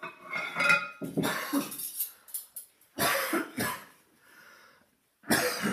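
A man coughing in four separate fits.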